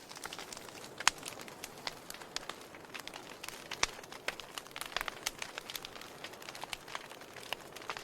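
Wood fire in a fireplace crackling, with irregular sharp pops over a soft steady hiss; the loudest pop comes about a second in.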